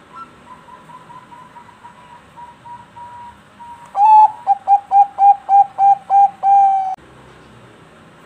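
Zebra dove (perkutut bangkok) singing: a faint run of quick soft notes, then a loud phrase of about nine short cooing notes ending in a longer held note.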